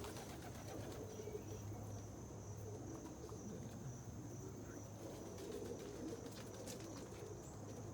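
Homing pigeons cooing in a loft, a low wavering murmur of several birds over a steady low hum.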